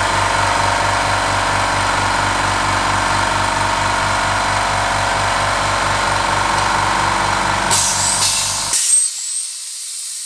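HBM 6 PK 150-litre oil-free low-noise air compressor running steadily with an even pulsing beat, then cutting out abruptly near the end as the tank reaches pressure. A softer hiss of escaping air follows the stop.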